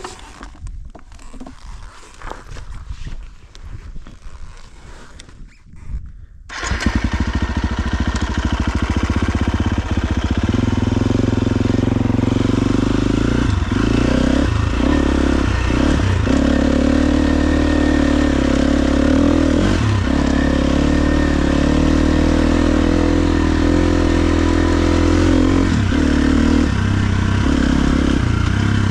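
KTM XC-F 350 dirt bike's single-cylinder four-stroke engine, which comes in abruptly about a quarter of the way in and then runs loud and steady under riding, with brief dips in pitch every few seconds as the throttle is rolled off and on. Before it there are only scattered quieter knocks and handling noises.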